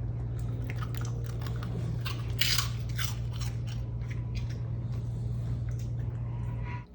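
A dog crunching and chewing a crunchy snack, with a run of crisp crunches that are loudest about two and a half seconds in. A steady low hum sits underneath and cuts off just before the end.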